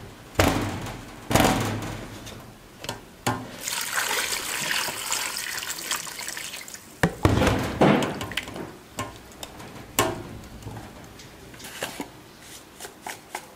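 Running water splashing in a sink or basin, loudest through the middle, with scattered knocks and clatter of things being handled in it.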